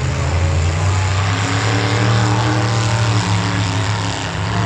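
Full-size truck engines running loudly and steadily, with a deep, even engine note throughout.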